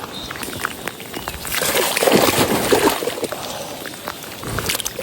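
Hands groping through shallow water, sloshing and splashing, loudest from about one and a half to three seconds in and again near the end.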